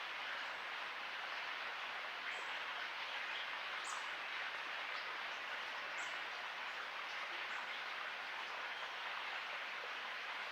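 Tropical forest ambience: a steady hiss of night sounds with about four short, high chirps from a bird spread through it.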